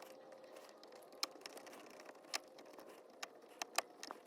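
Faint, irregular clicks of a screwdriver backing Phillips screws out of a steering-column clock spring.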